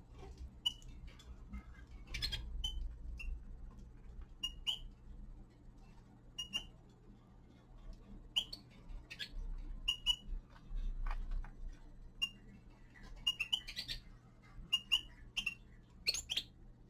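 Small caged finches giving short, scattered chirping calls, with sharp clicks and taps among them.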